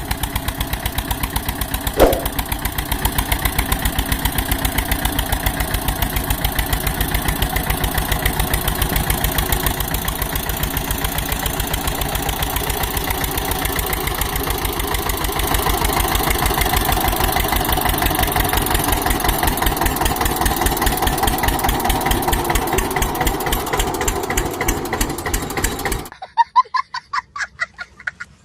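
Eicher 242 tractor's diesel engine running steadily with an even, rapid knocking beat, a single sharp click about two seconds in. The engine sound cuts off suddenly near the end.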